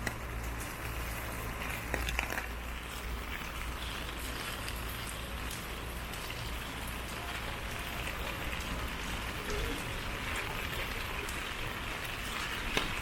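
Steady rain, an even hiss with a few scattered drop clicks over a low rumble.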